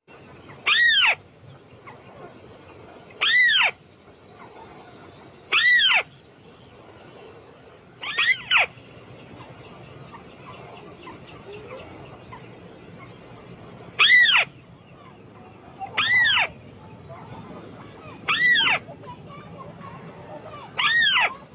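White-browed crake calling: a string of short, loud, arched notes, each rising and then falling in pitch, repeated about every two seconds. One comes as a quick double, followed by a longer pause near the middle.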